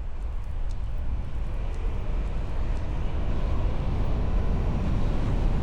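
Low rumbling road and wind noise from a vehicle on the move, steady and slowly growing louder.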